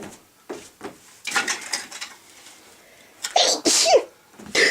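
Firewood logs knocking and scraping as they are laid into a wood-burning stove's firebox, then a person sneezes loudly about three and a half seconds in.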